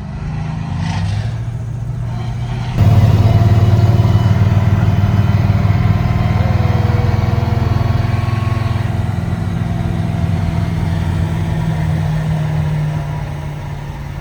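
Car engine running while driving, a steady low drone; it turns abruptly louder about three seconds in and eases off near the end.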